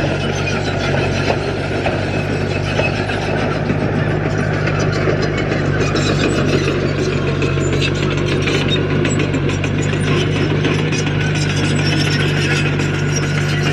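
Heavy diesel construction machine engine running steadily, with a scatter of small clicks and rattles over it.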